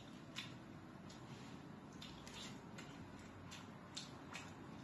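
Faint eating sounds: a man chewing a mouthful of food, with a few soft, irregular clicks.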